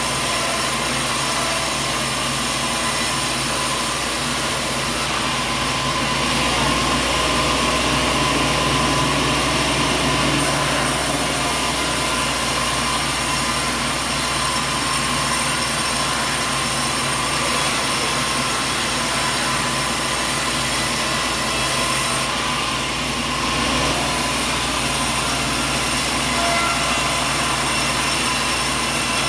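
Sawmill machinery running steadily: a loud, constant mechanical din with a steady hum, which swells slightly from about 6 to 10 seconds in.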